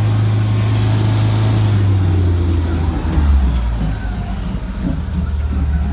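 Tour boat's motor running with a steady low hum that drops to a lower pitch about three seconds in.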